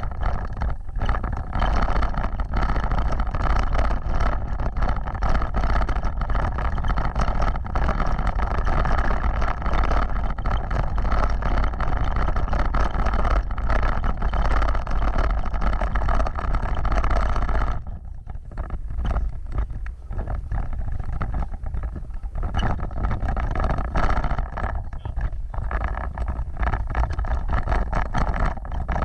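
Off-road vehicle driving over rough ground: a constant heavy rumble with frequent jolts and rattles, easing somewhat about two-thirds of the way through.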